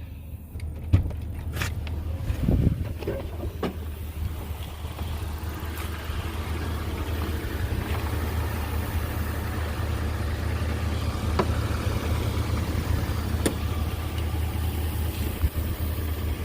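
A motor vehicle's engine running steadily with a low, even hum. A few sharp knocks and clicks come in the first three seconds.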